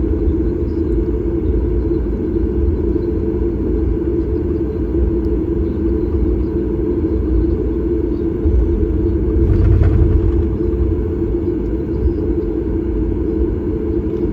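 Steady rumble of engine and airflow noise inside the cabin of a Boeing 737 MAX 8 with CFM LEAP-1B engines, swelling briefly louder about ten seconds in.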